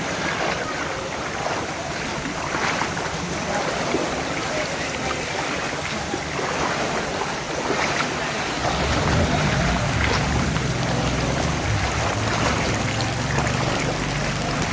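Floodwater sloshing and splashing in a waterlogged street, a steady watery rush with small splashes. About halfway through a low rumble joins it.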